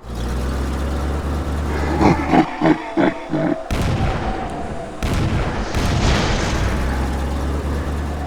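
Sound effects of a deep rumble with a quick run of about five loud bangs a couple of seconds in, followed by noisy blasts that cut in and out suddenly.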